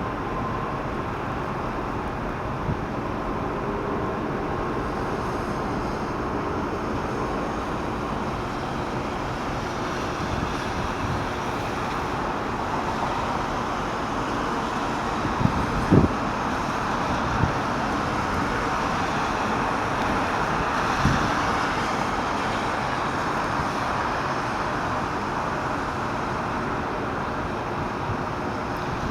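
Steady outdoor traffic rumble with a broad swell about two-thirds of the way through and a few brief knocks.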